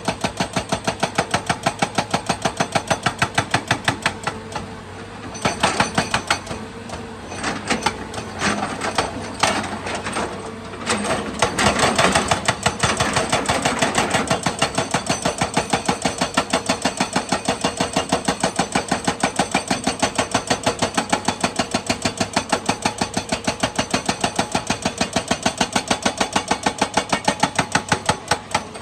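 Excavator at work with a fast, even mechanical pulsing; from about four seconds in to about fourteen seconds, louder irregular clanking and scraping rises over it, loudest near twelve seconds.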